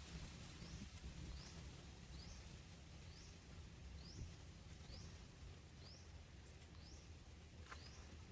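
Faint high chirps from a small animal, each one rising in pitch, repeated evenly about once every second or a little faster over a low steady background rumble.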